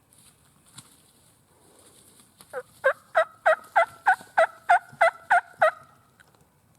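A bird calling in a quick run of about ten short, evenly spaced notes, roughly three a second, starting about two and a half seconds in.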